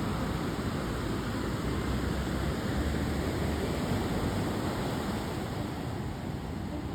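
Ocean surf washing onto a sandy beach: a steady rushing hiss over a low rumble, swelling slightly around the middle.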